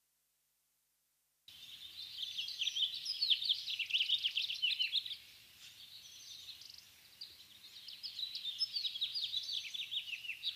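Small birds chirping busily: many quick, high chirps overlapping. They start abruptly after a second and a half of dead silence, thin out around the middle and pick up again toward the end.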